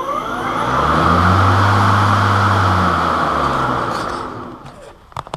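EGO cordless battery lawn mower's electric motor and blade spinning up with a rising whine, running steadily with a low hum and a rush of air, then winding down after about four seconds.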